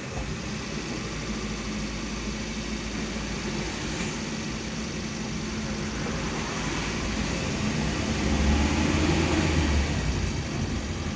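A car running, a steady rushing noise with a low rumble that grows louder about eight seconds in.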